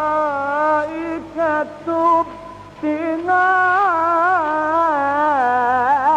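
Solo male voice chanting an Islamic ibtihal: long held vowels with melismatic ornamented turns, broken by short breaths.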